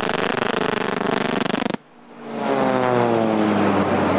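Propeller aircraft engine sound: a rapid, dense buzz that cuts off abruptly just under two seconds in. After a brief gap, a second engine sound fades in with its pitch falling steadily, as when an aircraft passes by.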